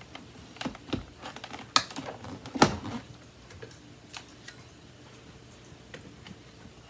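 Clicks and knocks of a Miele stick vacuum's wand and attachments being handled and fitted together, the loudest two about two seconds in, then a few faint ticks.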